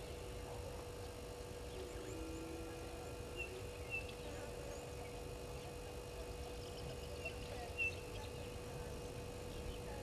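Outdoor bush ambience with a steady hum and low rumble, broken by two pairs of short, high bird chirps, one pair a few seconds in and another near the end.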